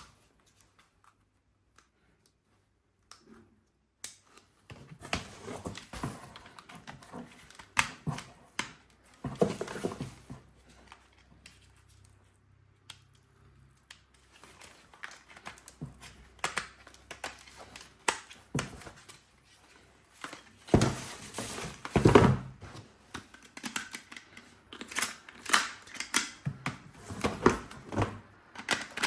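Objects being handled and unpacked: irregular clicks, taps and short rustles, after a few seconds of near silence at the start.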